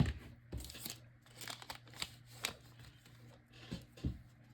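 Trading cards and their wrapper being handled: short rustles and crinkles of the packaging with a few sharp card clicks.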